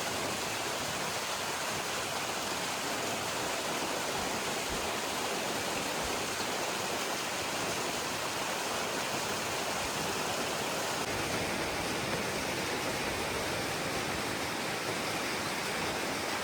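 Steady rushing of water, an even unbroken roar of the kind a waterfall makes.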